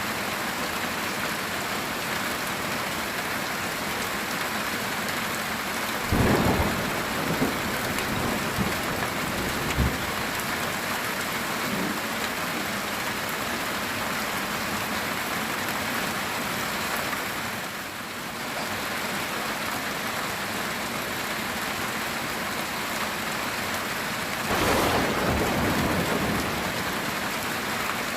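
Heavy rain falling steadily on a metal tin roof, an even hiss, with a thunderclap and rumble about six seconds in, a couple of smaller rumbles just after, and another thunderclap near the end.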